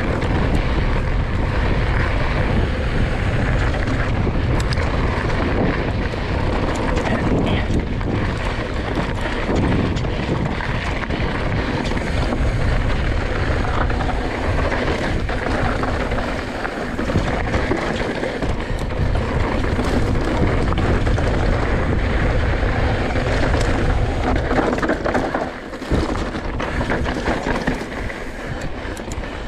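Wind buffeting the bare microphone of a chest-mounted action camera on a fast mountain-bike descent, a constant heavy rumble mixed with tyre noise on rocky trail and rattling knocks from the bike. The rush eases briefly near the end.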